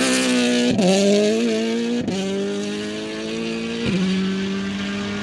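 Rally car engine pulling hard through the gears. The pitch climbs within each gear, and three quick upshifts each bring a sudden drop in pitch with a short sharp crack.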